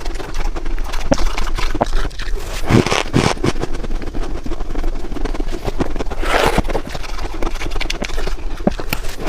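Close-miked crunching and scraping of freezer frost being eaten, a dense run of crisp clicks with louder crunches about three seconds in and again past six seconds.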